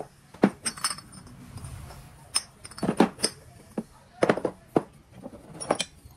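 Metal parts and hand tools being handled, giving irregular sharp clinks and knocks.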